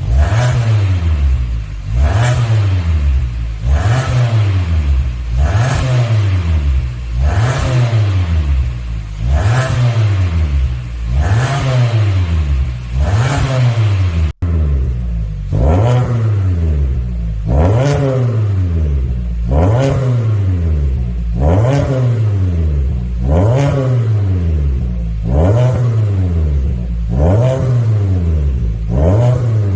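Hyundai YF Sonata 2.0's four-cylinder engine being blipped over and over through a custom variable-valve exhaust, one rev every two seconds or so, the exhaust note climbing and dropping back to idle each time. A brief cutout comes about halfway through.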